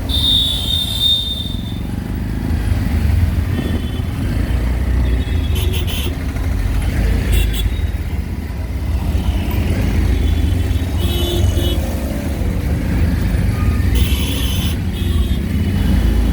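Steady low engine and road rumble from inside a moving auto-rickshaw in street traffic. A high-pitched tone sounds for about a second at the start, and brief high sounds from the surrounding traffic cut in a few more times.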